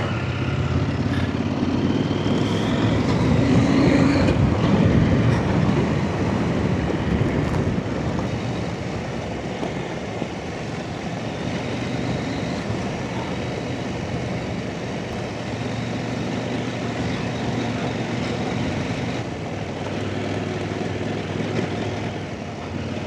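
Off-road motorcycle engine getting louder over the first few seconds, then running steadily at road speed.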